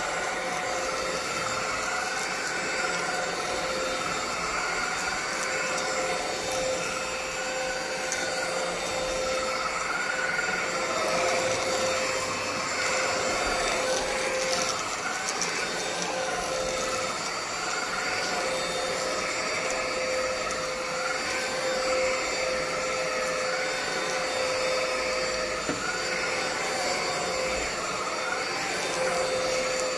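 ANKO cordless stick vacuum cleaner running continuously on battery power, its electric motor giving a steady whine that wavers slightly in pitch.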